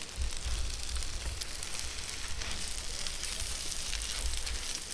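Food frying on a hot cooking plate: a steady sizzle with small pops, over a low rumble.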